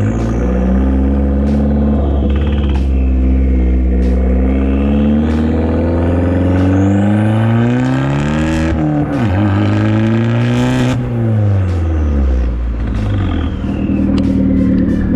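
Fiat 500 Abarth's 1.4-litre turbocharged four-cylinder running loud through a catless downpipe and catless cat-back exhaust. Its pitch rises and falls twice in the second half as it is revved.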